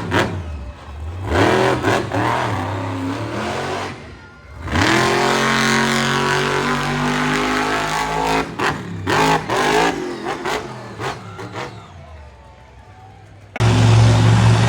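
Monster truck engines revving hard, their pitch climbing and falling repeatedly, with the sound dropping away abruptly twice; near the end a louder, steady engine note comes in.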